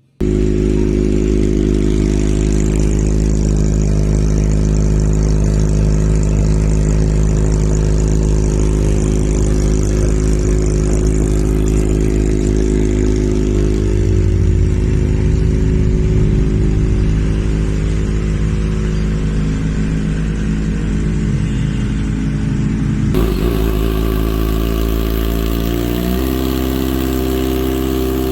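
Kawasaki ZX-25R's 250 cc inline-four engine idling steadily through a full-system racing exhaust, with a deep, even exhaust note. Near the end the sound changes abruptly and the pitch shifts slightly.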